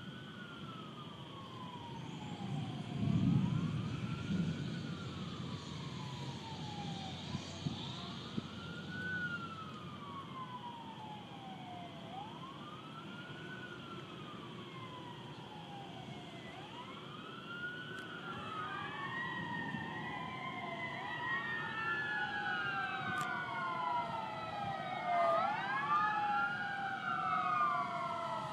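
Emergency vehicle sirens wailing, the tone rising and falling every few seconds. At first one siren is heard; about halfway through several more join and overlap, growing louder. A brief low rumble comes about three seconds in.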